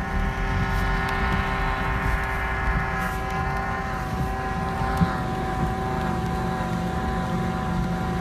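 Steady drone of engines running, with a held whine over a low rumble, heard from inside a car. A single sharp knock comes about five seconds in.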